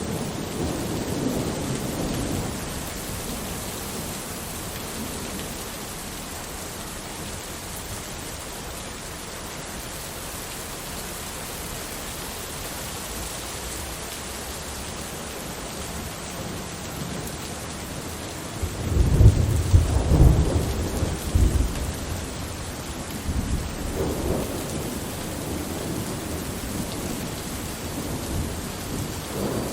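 Steady rain with thunder: a long low rumble of thunder rolls in about two-thirds of the way through, followed by fainter rumbles near the end.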